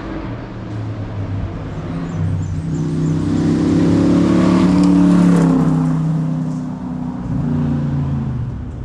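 Hillclimb race car accelerating past, its engine note building to a peak about five seconds in and then fading as it moves away. Near the end the engine pitch dips and climbs again.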